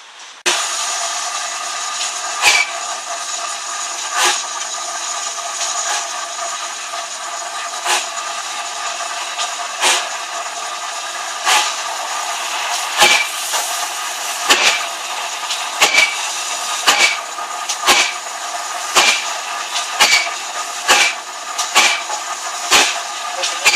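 A steam-hauled train running, with a steady rushing noise and sharp clicks of the wheels over rail joints. The clicks come about every second and a half at first and close up to about one a second, as the train gathers speed.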